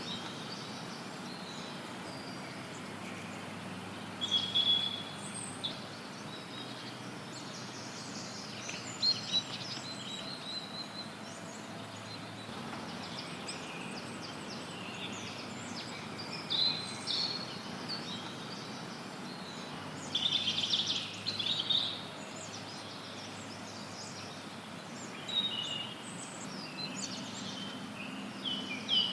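Songbirds chirping and twittering in short phrases every few seconds over a steady hiss of white noise.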